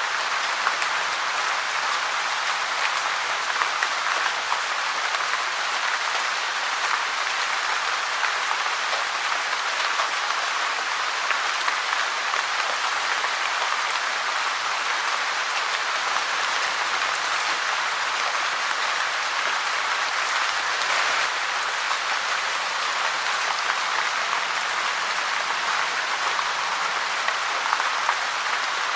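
Steady, dense rain falling: an even hiss of many drops with fine crackling, unchanging throughout.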